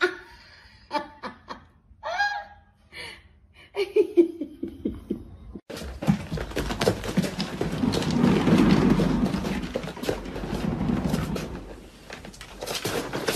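A few short, scattered sounds, then from about six seconds in a long stretch of people laughing hard, fading somewhat near the end.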